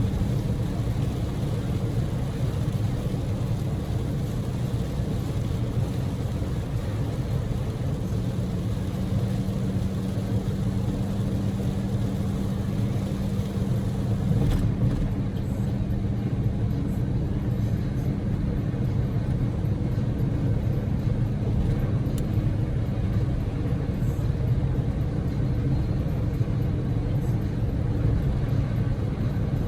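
Daihatsu Move L150S's 660 cc three-cylinder engine running at a steady cruise with tyre and road noise, heard from inside the cabin as a continuous hum.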